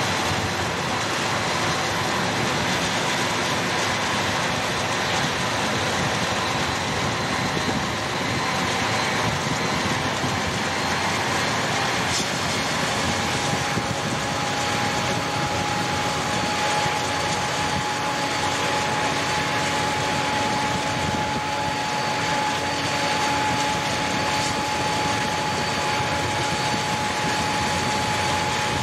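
CSX diesel locomotives running steadily along the line, a constant engine and rail noise with no break. A faint steady whine joins about halfway through.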